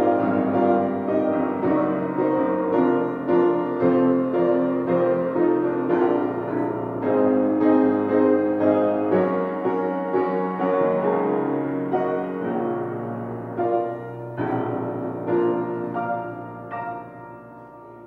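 Piano playing slow, sustained chords, growing softer in the last few seconds and ending on a few separate notes that ring out and fade.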